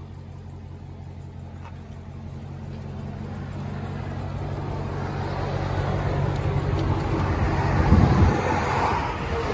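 Dodge Challenger Hellcat's supercharged 6.2-litre HEMI V8, running through Carven R-Series mufflers with a rear muffler delete, growing steadily louder under throttle and peaking about eight seconds in before easing slightly.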